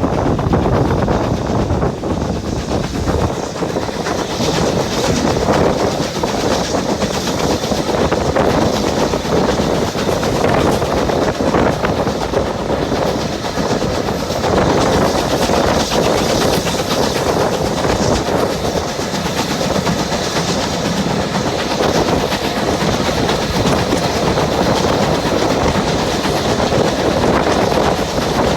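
Train running steadily along the track: wheels on the rails, with a dense continuous noise that stays level throughout.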